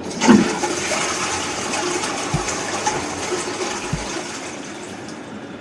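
Steady rushing hiss of a subway car in motion on the G train, slowly fading, with two soft low thumps about midway.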